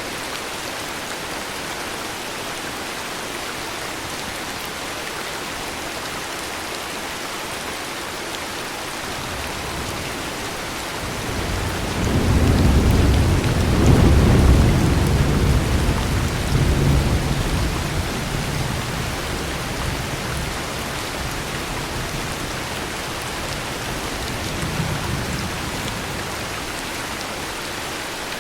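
Steady heavy rain with a rumble of thunder that builds about 11 seconds in, is loudest for several seconds, then slowly fades; a faint second rumble follows near the end.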